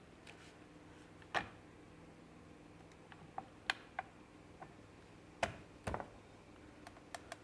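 Scattered metal clicks and knocks as an engine cover is handled and seated onto a motorcycle engine's top end. The loudest knocks come about a second and a half in and twice around six seconds, with lighter clicks between.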